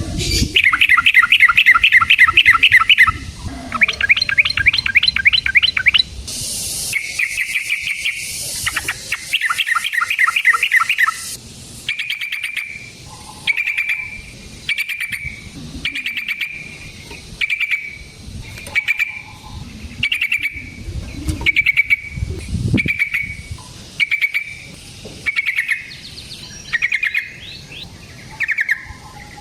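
Yellow-vented bulbul (trucukan) singing busily: long, rapid chattering trills for roughly the first eleven seconds, then short repeated phrases about once a second.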